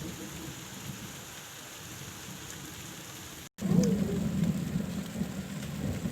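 Steady rain falling. About three and a half seconds in, the sound cuts out for a moment and returns with a louder low rumble under the rain.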